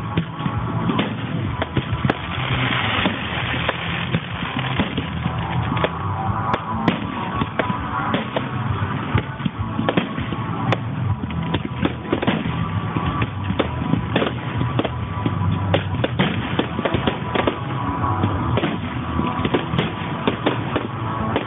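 Fireworks display: many sharp bangs and crackles at irregular intervals, with music playing underneath.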